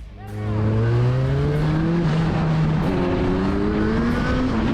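Motorcycle engine accelerating, its pitch rising, dropping at a gear change about three seconds in, then rising again, over steady wind and road noise.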